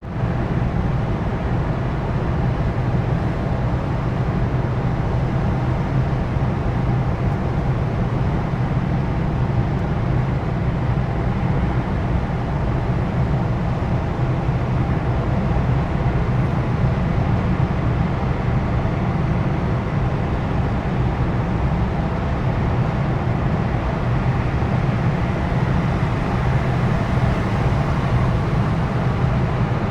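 Steady road and engine noise of a car driving through a motorway tunnel, a low hum and tyre noise that holds even throughout.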